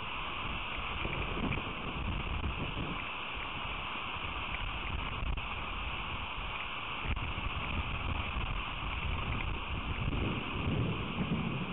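Steady rain hissing and pattering, with gusts of wind buffeting the microphone that grow stronger near the end.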